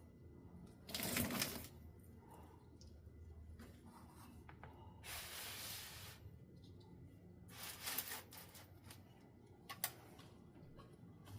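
A few short rustling, scraping handling noises: one about a second in, a longer one of about a second near the middle, and another later on. A single sharp click comes shortly before the end.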